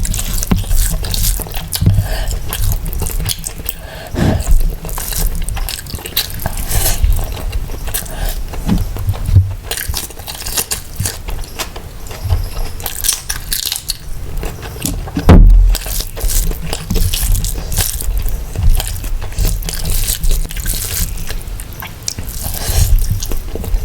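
Close-miked eating sounds: a person chewing mutton biryani and curry, with wet mouth clicks and smacks and a low thump about 15 seconds in.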